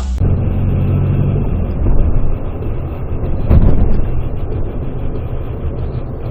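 A car driving, with a steady low rumble of engine and road noise. A sudden loud thump comes about three and a half seconds in.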